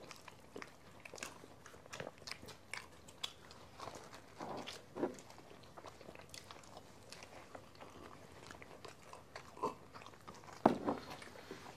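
Faint, irregular chewing and biting of pizza slices, with small crunches and clicks scattered throughout.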